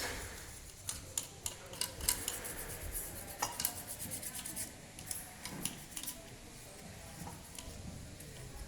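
Light metallic clinks and clicks of hand tools and small metal engine parts being handled and set down, a quick run of them in the first half, then only a few.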